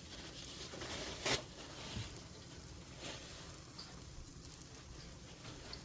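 Buttermilk pancakes frying in butter in a pan: a faint steady sizzle, with a few short, louder hisses, the strongest about a second in.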